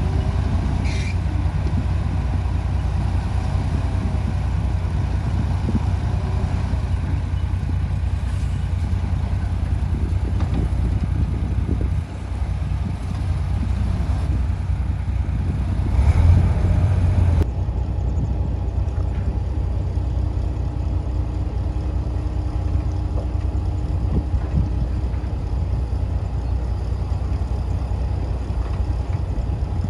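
Heavy diesel earthmoving engine running steadily with a low rumble. It dips briefly about twelve seconds in and grows louder for a second or so past the middle. Then the sound changes abruptly, losing much of its upper hiss.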